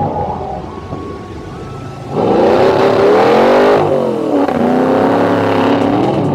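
Drift cars' engines revving hard while sliding, the pitch climbing and dropping as the throttle is worked. The sound is fainter for the first two seconds, then jumps louder about two seconds in.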